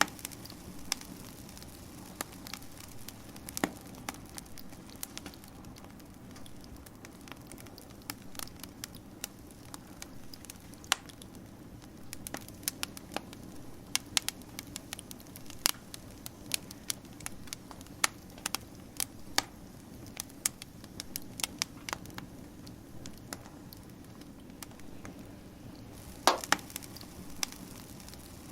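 Wood fire crackling: irregular sharp pops and snaps over a steady low hiss of burning, with a louder burst of pops near the end.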